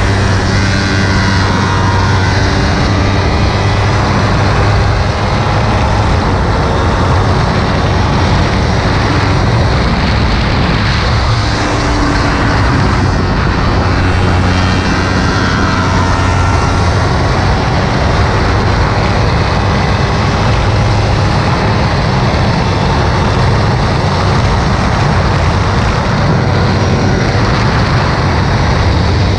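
Kawasaki Ninja 300's parallel-twin engine running hard on track, its pitch rising and falling with throttle and gear changes, under steady wind rush.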